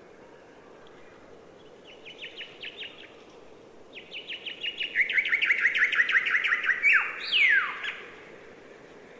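A songbird singing. A short run of quick chirps about two seconds in is followed, about four seconds in, by a longer, louder rapid trill of chirps. The song ends in two long notes that slide down in pitch.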